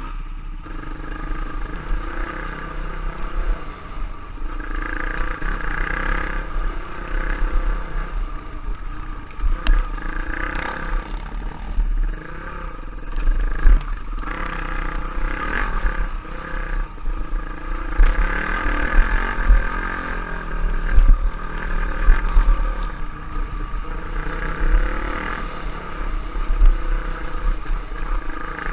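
Off-road trail motorcycle engine running as the bike is ridden, its pitch rising and falling with the throttle, with scattered knocks and clatter.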